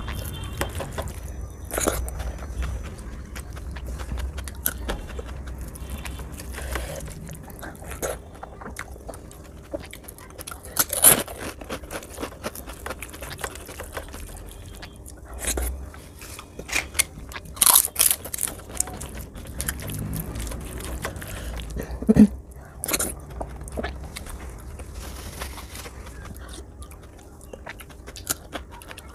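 Close-miked chewing and wet mouth sounds of someone eating rice mixed with dal by hand, with a few sharper smacks and clicks scattered through the middle.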